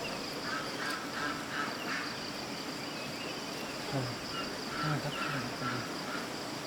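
Insects chirring in a steady high drone, with short, repeated calls from other animals over it, mostly in two clusters.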